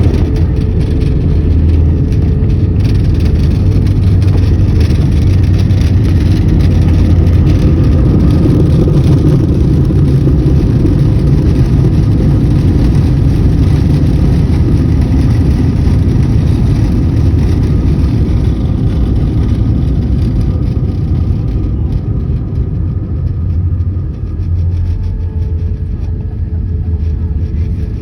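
Airliner cabin noise from a window seat during the landing: a steady, loud, low rumble from the jet engines with a faint steady whine, easing off after about twenty seconds as the plane slows.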